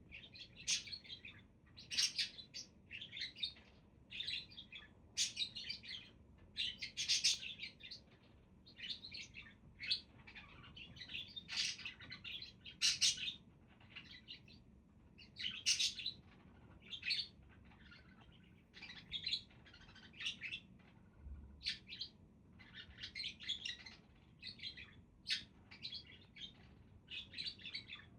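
Budgerigars chirping and chattering: quick, high warbling calls, several a second, with only short gaps.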